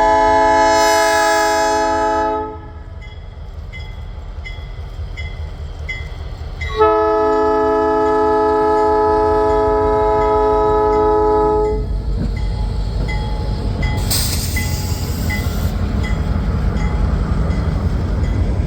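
A diesel freight locomotive's multi-chime air horn sounds: a long blast ends about two seconds in, and a second long blast follows about seven seconds in, lasting about five seconds. Under it a bell dings steadily, and after the horn the low rumble of the passing locomotives grows, with a brief hiss about two seconds later.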